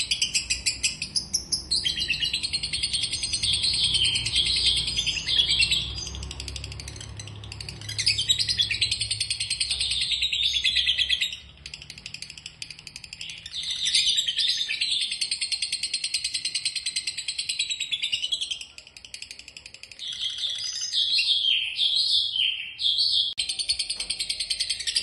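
A songbird singing long, fast phrases of rapidly repeated high notes, in four bouts with short pauses between them.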